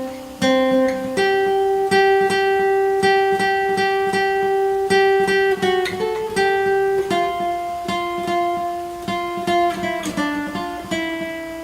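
Acoustic guitar instrumental: a slow melody of held notes over strummed chords, ending on a long note that fades away.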